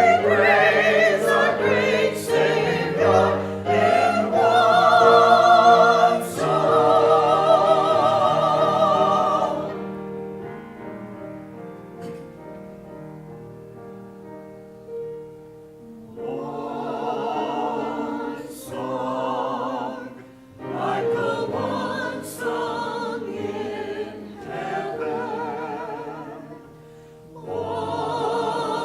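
Church choir singing with vibrato over accompaniment. The voices drop out about ten seconds in, leaving a soft held accompaniment, and come back in a few seconds later.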